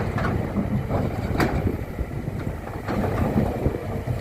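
A heavy engine running steadily with a low rumble, with a few sharp knocks or clanks over it, about one and a half seconds in and again near the end.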